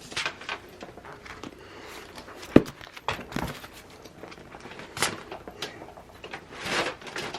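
Sticker sheets and paper being handled on a desk: scattered rustles and light taps, with one sharp knock about two and a half seconds in and a longer rustle near the end.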